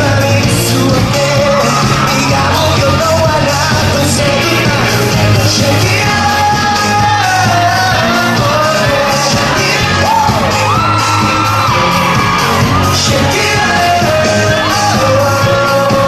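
Live pop song with a steady full-band beat and a singer's voice holding and sliding through long notes, with shouted ad-libs.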